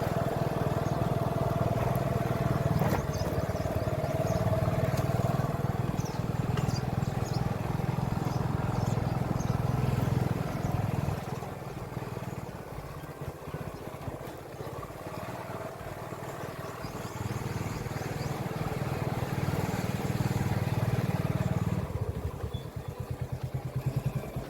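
An engine running steadily, easing off for a few seconds midway and again near the end, where its separate firing pulses can be heard.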